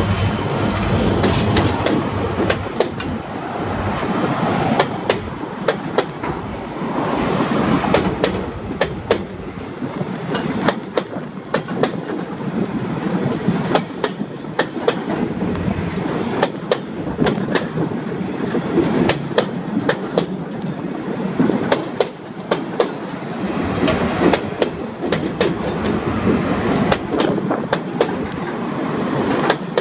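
Empty log wagons of a freight train rolling past close by, their steel wheels clacking sharply and irregularly over the rail joints above a steady rumble.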